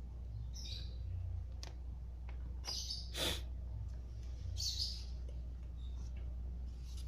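Birds chirping in short calls over a steady low hum, with a few sharp clicks in between.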